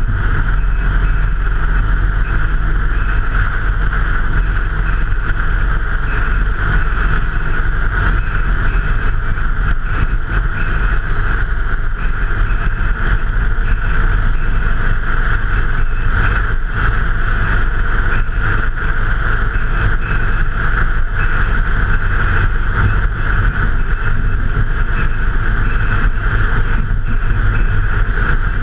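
Motorcycle running at a steady riding speed, its low engine rumble mixed with wind rush, picked up by a handlebar-mounted GoPro action camera.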